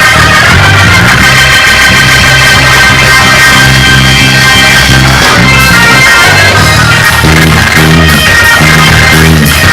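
Loud church praise-break music from the band, with a prominent bass line moving under it and no break.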